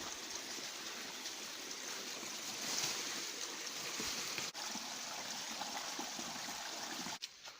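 Steady rush of flowing water from a stream, cut off abruptly near the end.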